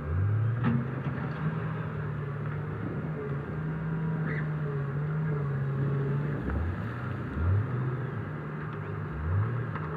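Heavy diesel machinery engine running, with several short revs that rise in pitch.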